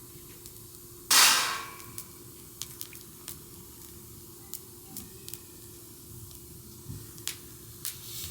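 Wood fire crackling, with sharp separate pops scattered through. About a second in there is one loud, short hiss that fades over about half a second.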